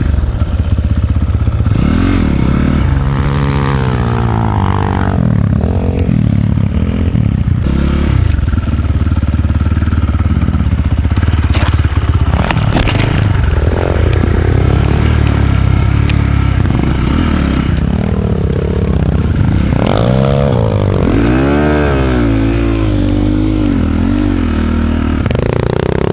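Enduro dirt bike's single-cylinder four-stroke engine under way off-road, the revs rising and falling over and over as the throttle is worked. A few clattering knocks come from the bike over rough ground about halfway through.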